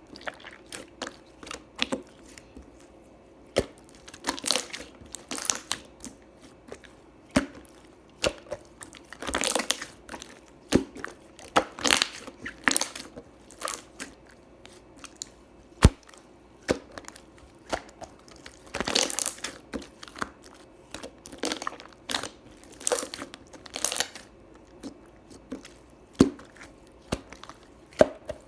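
Hands squishing, pressing and stretching a glossy slime: irregular sticky crackles, pops and clicks, with short louder runs of crackling every few seconds.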